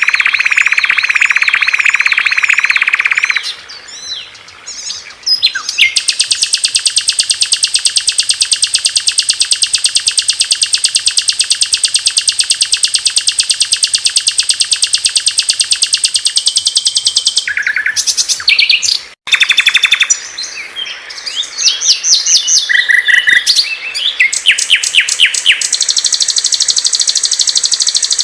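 Recorded songs of several small songbirds spliced one after another, each stopping abruptly as the next begins. In the middle is a long, very rapid, high trill of about ten seconds; the rest is shorter phrases of fast chirps and whistled notes.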